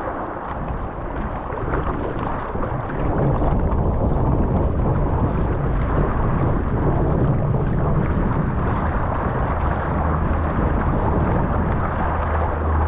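Strong wind buffeting the microphone with a heavy low rumble, over rushing and splashing water.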